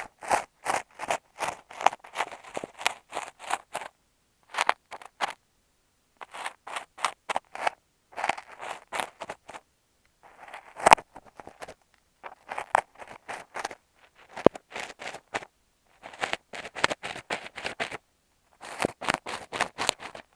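Kinetic sand and an ear pick scratched and crunched right against an earphone microphone: quick, close scratchy strokes several a second, in bursts with short pauses between, and one sharper click about eleven seconds in.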